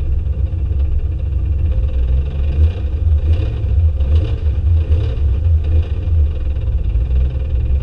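Drift cars running on the circuit, heard as a loud, steady low rumble, with a few faint short hisses repeating through the middle.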